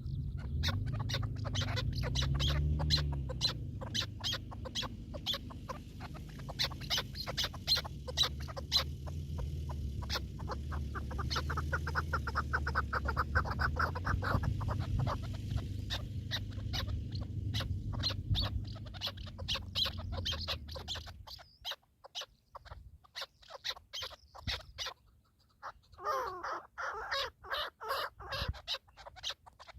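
Partridge calling in fast runs of sharp clucks, with a steady low rumble underneath that stops about two-thirds of the way in; after that come a few sparser chirping calls.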